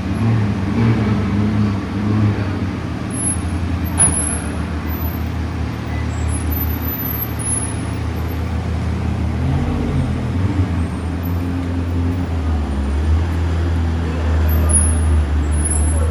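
Low rumble of car engines in street traffic, its pitch shifting as vehicles move, with one sharp click about four seconds in.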